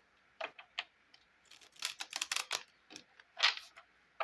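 A deck of Lenormand cards being shuffled by hand: a few light clicks, then a quick run of card snaps about one and a half seconds in, and another brush of cards near the end.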